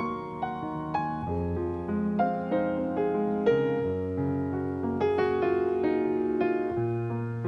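Background piano music: a gentle melody over sustained chords, each note struck and fading.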